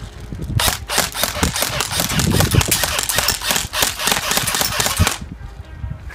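Airsoft Honey Badger electric rifle, fitted with a new motor, firing one long full-auto burst of rapid shots lasting about four and a half seconds, starting about half a second in.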